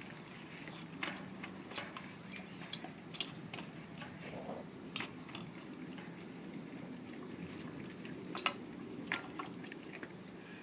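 Doberman gnawing at a frozen raw chicken quarter in her bowl: scattered, irregular clicks and scrapes of teeth on the meat and the bowl.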